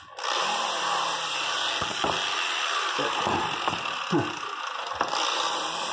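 Homemade 90-degree variable-speed electric die grinder with a quarter-turn sanding disc, starting up abruptly and sanding into a corner. The sound holds steady, its pitch shifting now and then as the disc bears on the work.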